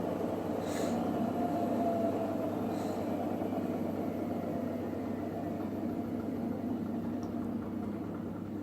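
Electrolux WD41A84160 washing machine in its final spin, the motor and drum running with a steady whir and hum that gradually eases off as the spin winds down. A couple of light ticks are heard in the first few seconds.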